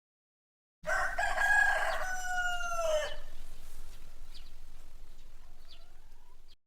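Rooster crowing once: a single call of about two seconds that drops in pitch at the end, followed by a few faint chirps over low background noise. The recording starts and stops abruptly.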